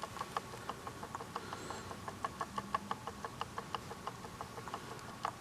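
Faint, irregular small clicks and taps, several a second and uneven in strength, over a faint steady high-pitched hum.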